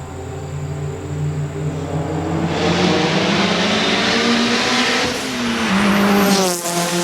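Turbocharged 1.8T four-cylinder engine of a Mk4 VW GLI under hard acceleration, its note climbing steadily. It dips briefly about five seconds in, climbs again, then falls away sharply near the end.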